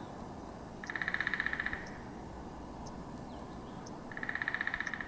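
Two trills of rapid, evenly spaced notes on one pitch, each about a second long, typical of a small songbird, over faint outdoor background hiss.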